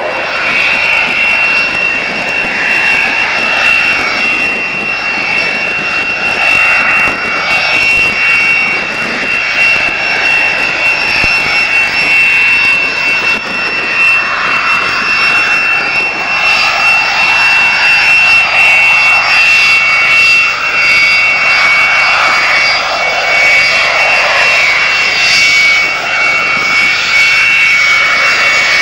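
Aircraft turbine engine running with a steady high-pitched whine over a rushing noise, holding its pitch throughout.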